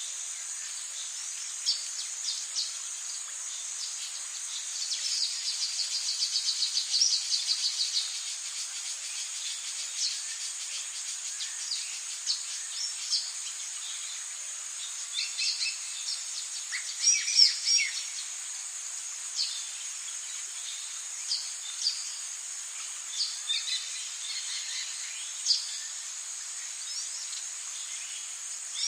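Rainforest ambience: a steady high-pitched insect drone with scattered bird chirps and calls over it. A fast trill of repeated notes runs for about three seconds early in the stretch, and a louder burst of calls comes about halfway through.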